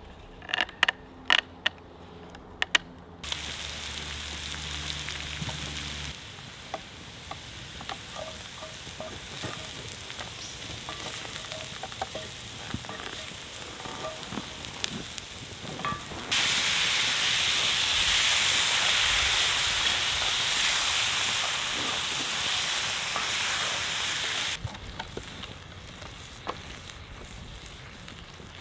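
A few sharp wooden knocks of logs being fitted onto a log chair frame, then pancetta and onion sizzling in a cast iron skillet over a campfire, with a wooden spoon stirring and scraping the pan. The sizzle grows louder partway through and drops back lower near the end.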